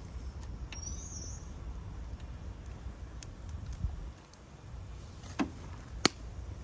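Wood bonfire crackling: scattered small pops and snaps over a low steady rumble, with a louder sharp pop about six seconds in.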